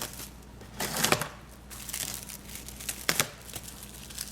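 Crinkling and rustling from handling things while making rice crispy treats, with a few light knocks, the sharpest about a second in and again about three seconds in.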